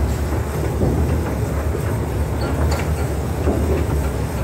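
Small zoo toy train running, heard from on board: a steady low rumble of engine and wheels with a few light clicks.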